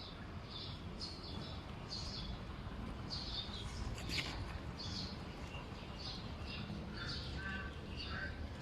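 Small birds chirping in short, repeated high notes, a few lower calls among them, over a steady low rumble.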